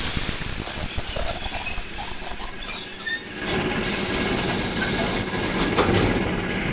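ED9M electric commuter train running on the rails, its wheels squealing with a high, thin squeal over a steady rumble, mostly in the first half, with scattered clicks.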